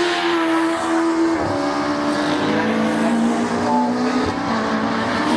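Racing car engines running hard, their pitch stepping down twice as the cars shift down under braking, then starting to climb again near the end.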